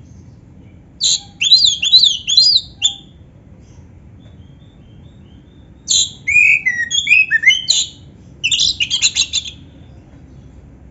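Oriental magpie-robin (kacer) singing in three bursts of quick, varied whistled and chattering phrases with short rising and falling notes, its song filled in with canary-like phrases.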